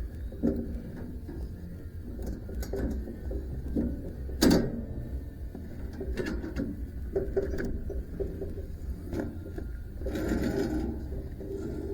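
Metal clinks, rattles and knocks of hand work on a sawmill's band blade and its guide rollers, with one loud sharp knock about four seconds in. A steady low hum runs underneath.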